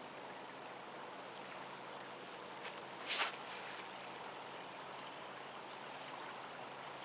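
Faint, steady outdoor background noise, with one short sharp swish about three seconds in.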